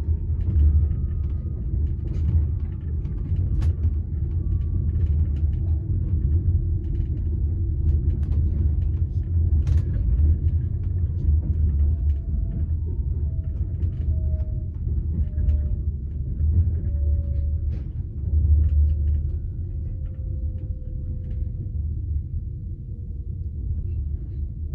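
Passenger train carriage rolling on the rails, heard from inside: a steady low rumble with faint scattered clicks and thin tones that slowly fall in pitch as the train slows for its stop.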